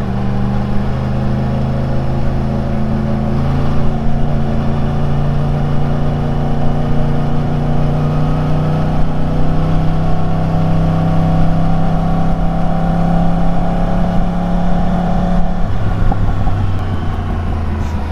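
Yamaha YZF-R1's crossplane inline-four engine and exhaust running under way, its pitch climbing slowly and steadily. Near the end the note drops as the throttle eases off.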